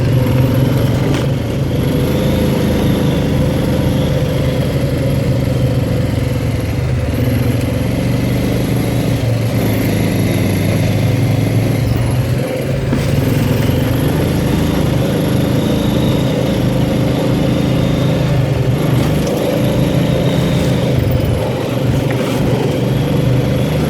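ATV engine running steadily under load while riding a trail, its pitch rising and falling gently with the throttle.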